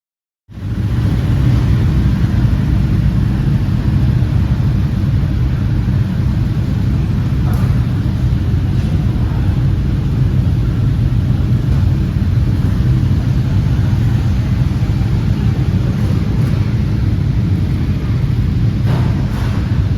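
Harley-Davidson Street Bob V-twin engine running steadily at cruising speed, with wind rushing past. The sound starts abruptly about half a second in and holds an even low rumble with no revving.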